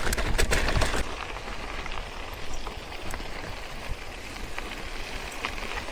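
Steady rushing noise of a bicycle ride: tyres rolling along the trail and wind rumbling on the microphone, with a few sharp clicks and rattles in the first second.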